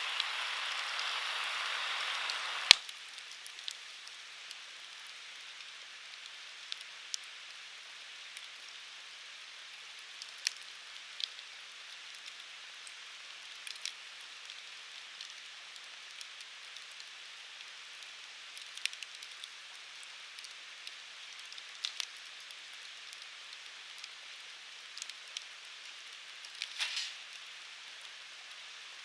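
Firewood burning in a Uniflame Fire Grill: a soft steady hiss with sparse sharp crackles and pops a second or a few apart. A louder hiss over the first few seconds cuts off with one sharp pop, the loudest sound, and a short cluster of crackles comes near the end.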